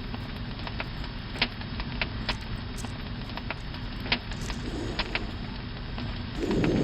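Campfire crackling: irregular sharp pops over a steady low rush, with a louder swell of rushing near the end.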